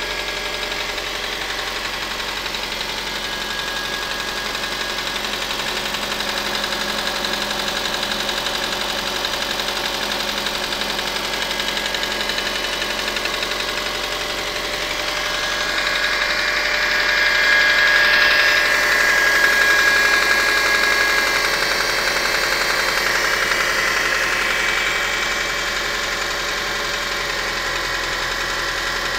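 Subaru EJ202 2.0-litre flat-four engine running with a rapid, steady knock, which the owner traces to the No. 4 cylinder. The sound swells louder for a few seconds past the middle, then settles back.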